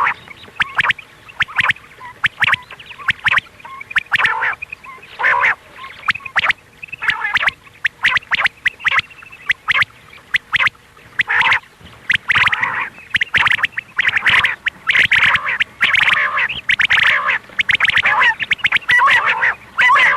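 Quail calling: short, harsh notes repeated in quick series, sparse at first and denser and louder from about halfway through.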